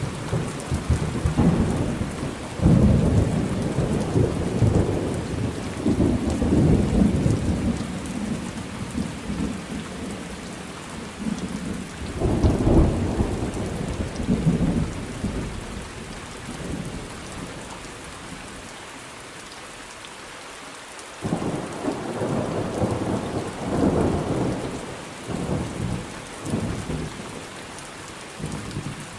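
Steady rain with rolling thunder: a long rumble through the first several seconds, another roll about twelve seconds in, a quieter lull, then a series of crackling rumbles from about twenty-one seconds on.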